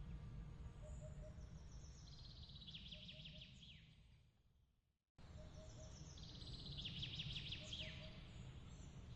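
Songbird trills, rapid repeated notes, over a steady low rumble, with faint soft triple chirps recurring about every second. Around four seconds in, everything fades out to silence, then cuts back in abruptly about five seconds in, where the same birdsong pattern starts over as a looped ambience track.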